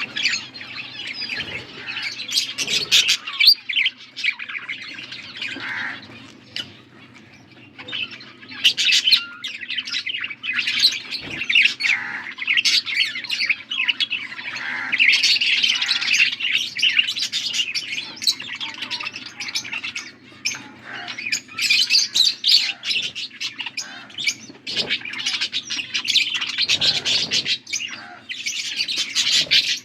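Budgerigars chattering, a dense run of quick chirps and warbles with a few harsher squawks, easing off briefly about a quarter of the way in.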